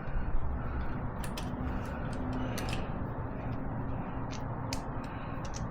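Scattered light metallic clicks and ticks as a fuel injector line's fitting nut is threaded down by hand on a Kubota V2203 diesel. A steady low hum runs underneath.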